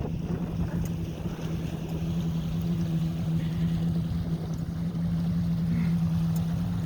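Boat engine running at a steady pitch, with a rush of wind and water.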